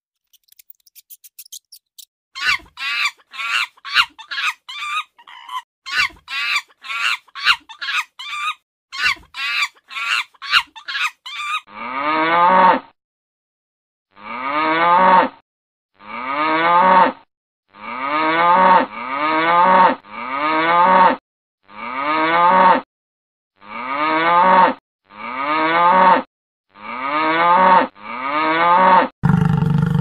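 Quick runs of short, high mouse squeaks, then a cow mooing over and over, about ten moos of a second or so each with short gaps between.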